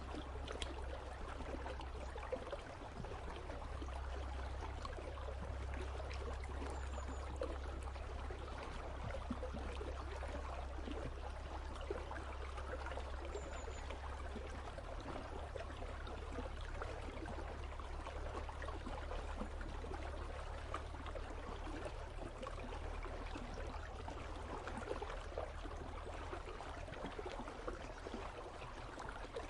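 Water of an icy river flowing and trickling steadily, with a low steady rumble underneath.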